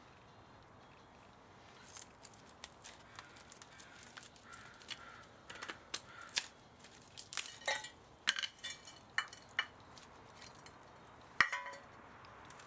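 Metal parts and tools clinking and knocking against each other as a spa motor is taken apart for scrap, a string of irregular light clinks, some ringing briefly, with one sharper knock near the end.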